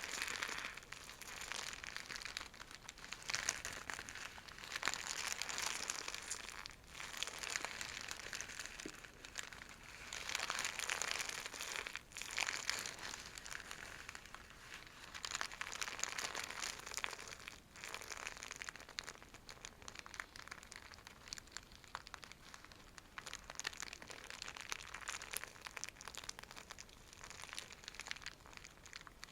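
A scratchy silk bag being scratched and scrunched: dense crinkling in swells of a few seconds, with a few brief breaks.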